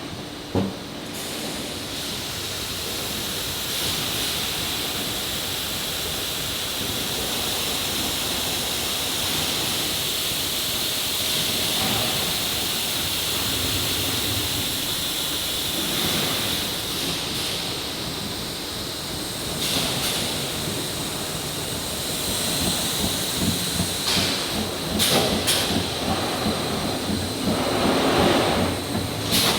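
Steady machinery noise with a hiss in a precast concrete factory, with several short knocks near the end.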